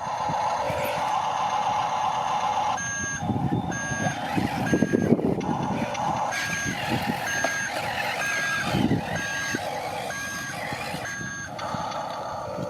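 Toy RC construction truck's sound module sounding reversing beeps: a dozen or so short, evenly spaced electronic beeps, starting about three seconds in and stopping shortly before the end, over the steady hum of its electric motor.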